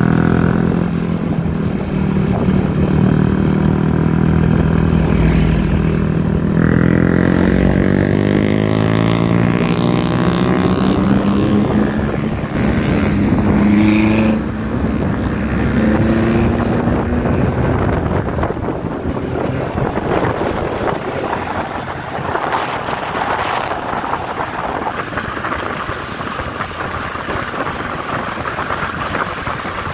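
Motor vehicle engine running on the road, its note sweeping up and down in pitch through the first half, then giving way to a steadier rushing road noise.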